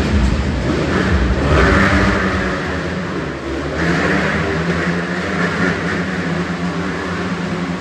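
Motocross motorcycle engines revving and running continuously inside a steel-mesh globe, as in a Globe of Death act.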